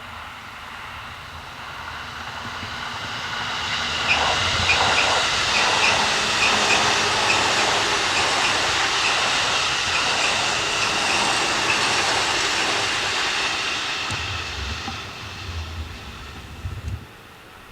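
Electric multiple-unit train passing by on the track: a rushing noise that builds over a few seconds, stays loud for about eight seconds with a run of sharp clicks from the wheels, then fades away.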